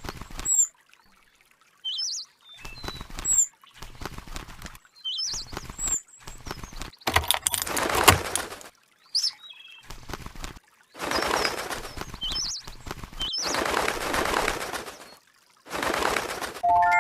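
Small birds chirping, with short high calls, in a series of abruptly cut segments. Noisy stretches of rustling flutter come and go, the loudest about seven to eight and a half seconds in.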